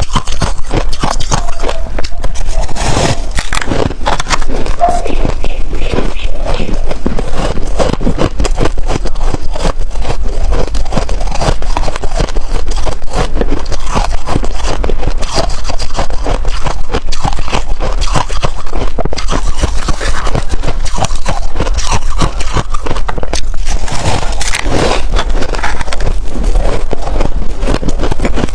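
Close-miked crunching and chewing of white freezer frost being eaten, a dense, continuous run of crunches.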